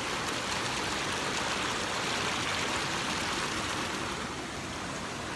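Waterfall's steady rush of falling water, a constant hiss-like roar that eases slightly about four seconds in.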